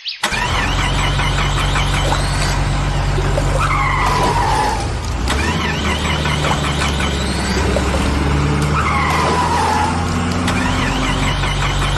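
Vehicle engine sound effect with repeated tyre-squeal and skidding noises over a steady low hum, cutting in abruptly at the start; the same pattern comes round about every five seconds.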